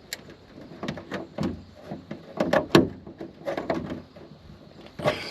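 Irregular plastic clicks and knocks as a car's windshield washer hose fitting is pushed and twisted by hand, failing to pop into place. A louder scrape comes near the end.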